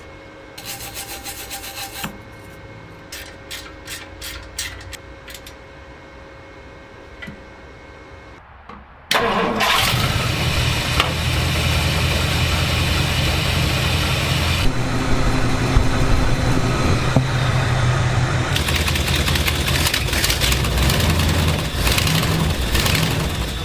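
The 1962 Ford Galaxie's V8 engine starting. After several seconds of short clicks, it catches suddenly about nine seconds in and keeps running.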